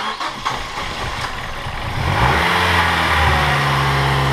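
Mazdaspeed 6's 2.3-litre turbocharged four-cylinder being started for the first time after its high-pressure fuel pump was cleaned and refitted: the starter comes in suddenly, the engine catches about two seconds in, revs up, and settles into a steady fast idle.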